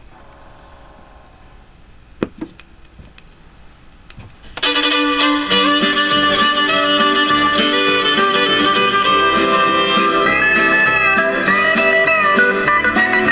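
A 45 rpm country record playing: a few seconds of quiet groove noise with a couple of sharp clicks, then country music with fiddle and guitar starting suddenly about four and a half seconds in.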